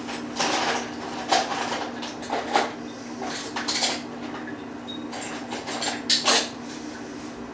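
Small metal hardware clinking and rattling in irregular short bursts as it is handled and sorted, over a steady low hum.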